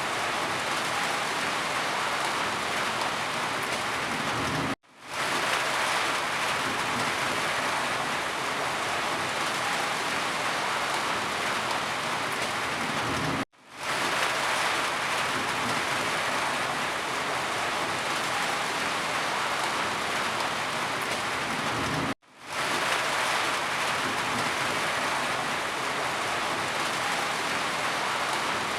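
Steady, heavy rain. The sound cuts out for a split second three times, about every nine seconds, then comes straight back.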